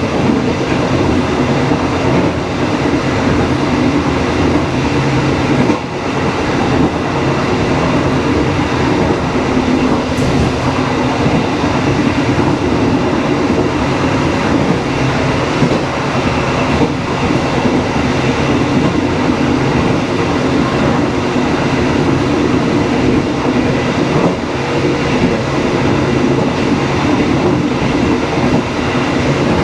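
Dharmawangsa passenger train running along the track: a steady rumble of wheels on rails with some clickety-clack.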